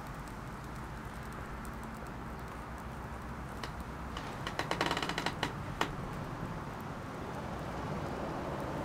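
Small wood fire crackling, with a quick run of sharp crackles about halfway through.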